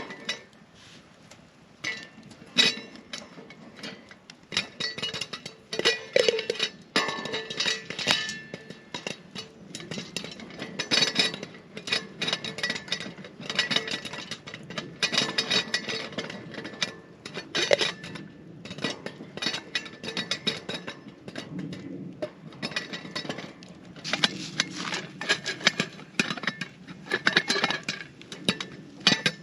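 Popcorn popping in a pan over a campfire: sharp, irregular pops with metallic clinks, sparse for the first couple of seconds and then coming thick and fast.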